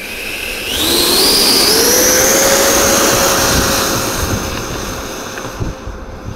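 Scratch-built RC Boeing 737 MAX 7 model airliner's motors spooling up with a rising whine about a second in. They then hold a steady high whine as the model rolls out for takeoff, fading as it draws away.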